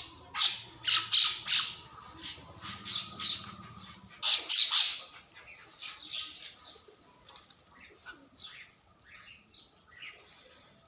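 Birds squawking in short, harsh calls, several a second. The loudest calls come in the first two seconds and again in a cluster about four seconds in, with fainter, scattered calls after that.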